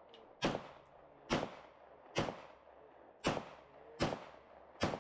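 A gun fired six times in steady succession, a shot a little under every second, each crack trailing off in a short echo.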